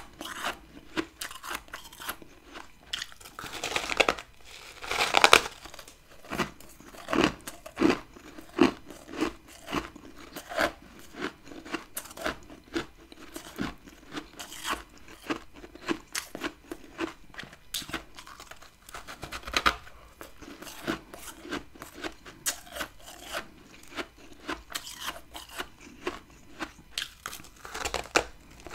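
Close-up biting and chewing of chunks of freezer frost: a dense run of crisp crunches and crackles, with louder bites a few seconds in and again about two-thirds of the way through.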